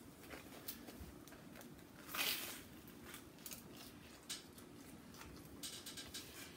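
Faint eating sounds: chewing and small wet clicks from a mouth working through a fried soft-shell crab sandwich, with one louder, short crunchy burst about two seconds in.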